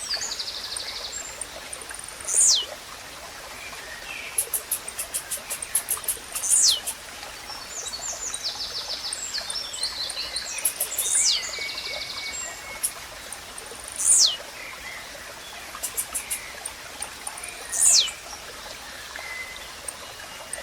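Blue-black grassquit (tizil) singing its short, high note that sweeps sharply downward, five times at about three- to four-second intervals. Between them other small birds give rapid high trills, over a steady hiss like running water.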